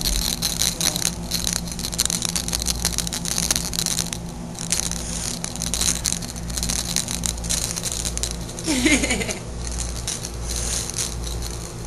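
Light, continuous rattling and clicking over a steady low hum, with a short sliding pitched sound about nine seconds in.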